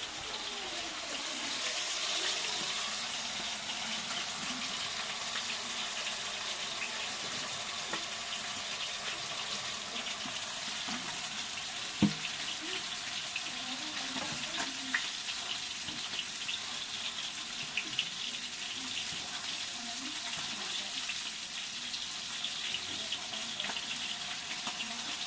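Food frying in a cooking pot: a steady sizzle full of small crackles. There is a sharp knock about halfway through, and a few lighter ones after it.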